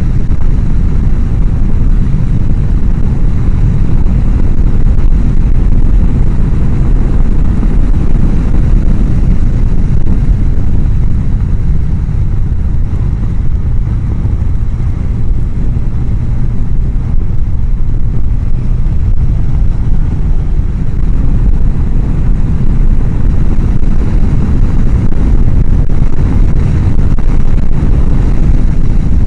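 Steady wind rush on a helmet-mounted microphone at riding speed, with a Honda CBR1000F's inline-four engine running underneath. The mic sits behind the helmet's chin-bar air vent, which lets the wind drown the recording.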